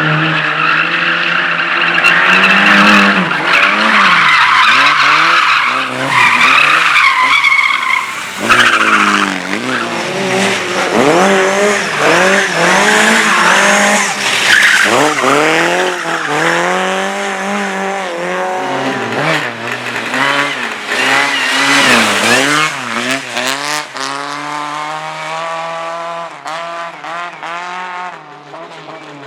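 Slalom race car's engine revving hard, its pitch climbing and dropping over and over through gear changes and throttle lifts, with tyres squealing and skidding through the turns during the first several seconds. The engine fades as the car pulls away near the end.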